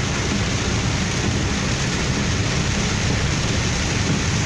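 Heavy rain and a vehicle travelling on a waterlogged road: a steady rush of rain and tyre spray over a low, even rumble.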